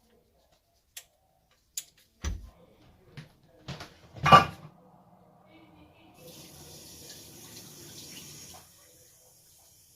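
A few separate clicks and knocks, the loudest about four seconds in, then a steady rush of running water for about two and a half seconds that stops abruptly.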